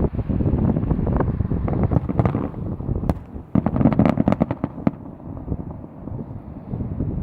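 Heavy wind noise on the microphone, with a quick cluster of fireworks bangs and crackles about three seconds in.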